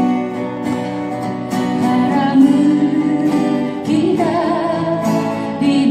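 Acoustic guitar accompaniment to a Korean folk song, with a voice singing over it.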